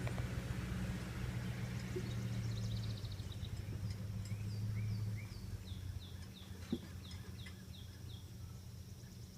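A bird singing runs of quick, down-slurred whistled notes over a low, steady hum that drops away about five seconds in.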